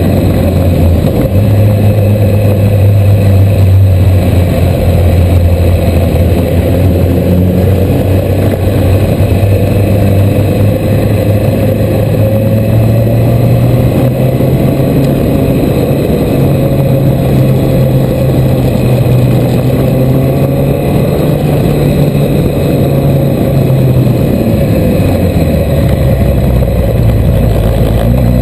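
Suzuki Hayabusa's inline-four engine running at a fairly steady speed under way, its note shifting only slightly, over a thick rush of noise; the pitch sags a little near the end.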